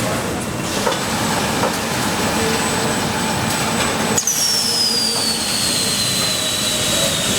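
Factory machinery running with a steady noise and a thin high whine. About four seconds in, the whine cuts off suddenly and a new high whine starts and slides steadily down in pitch.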